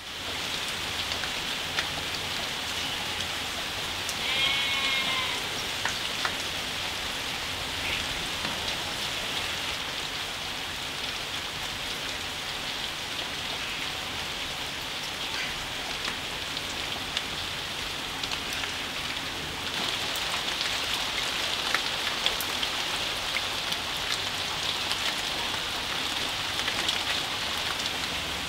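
Steady rain falling on garden plants and leaves, with scattered drop hits; it grows a little heavier about twenty seconds in. A brief animal call sounds once, about four seconds in.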